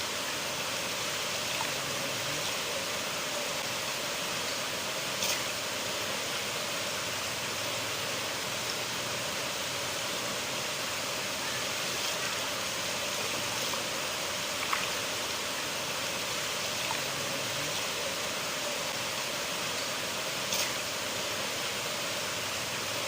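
River water flowing in a steady rush, with a few brief splashes or drips standing out now and then.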